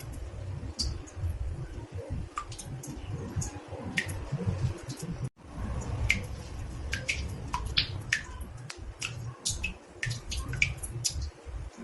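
Water drops falling irregularly into a bathtub, each a short plink dropping in pitch, over a steady low rumble. The sound cuts out for an instant about halfway through.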